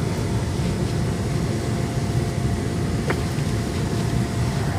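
Wind buffeting the microphone in a snowstorm: a steady, fluctuating low rumble. A brief faint rising chirp comes about three seconds in.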